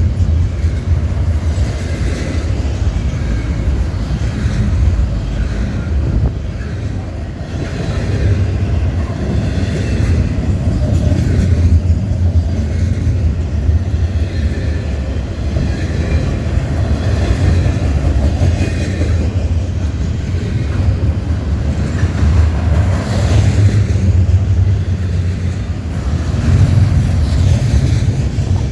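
Freight train cars rolling past: a loud, steady rumble of steel wheels on rail.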